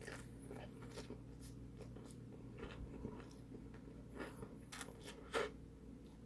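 Quiet close-up mouth sounds of chewing food: soft scattered wet clicks, with one sharper click about five and a half seconds in, over a faint steady hum.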